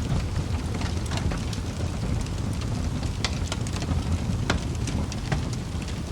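Wood fire burning in a fireplace: scattered sharp crackles and pops from the burning logs over a steady low rumble of flame.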